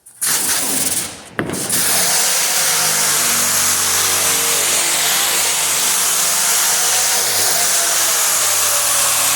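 Power sander fitted with a brand-new 36-grit disc, run steadily as it is swept back and forth across a car hood to take off material a little at a time. It starts, cuts out for a moment about a second in, then runs on without a break.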